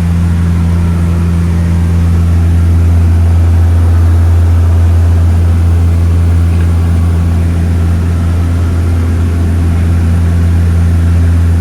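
Seaplane's propeller engines running, a loud, steady low drone that holds one pitch throughout.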